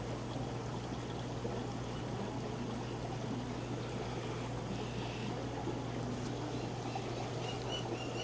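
Steady trickle and hum of aquarium filters and pumps running in rows of fish tanks, with a few faint short high chirps near the end.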